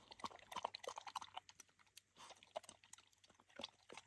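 Faint chewing of food, dumplings and steamed bun: soft, irregular mouth clicks and smacks.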